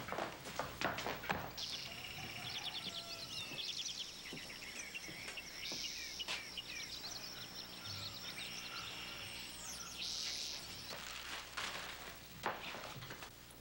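Small birds chirping over and over in quick sliding notes, with a few held buzzy calls. At the start and again near the end come knocks and rustles of things being handled.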